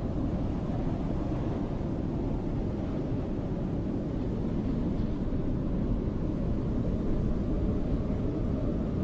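Snowstorm wind ambience: a steady, deep rush of wind with no separate events.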